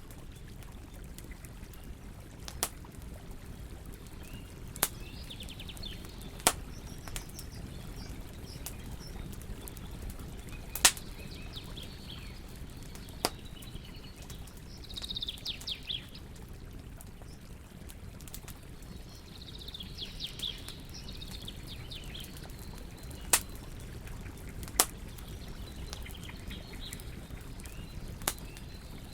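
Wood fire crackling, with sharp single pops every second or two over a steady low rush. Small birds chirp in short bursts, most clearly about halfway through and again about two-thirds of the way in.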